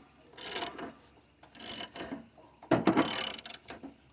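Ratchet wrench turning the alternator pulley nut on a VW Beetle, clicking in three strokes of about half a second each. The pulley and the engine turn with it, seating the pulley halves in line.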